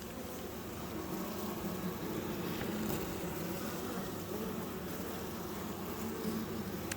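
Honeybees from an exposed hive buzzing in a steady, wavering hum.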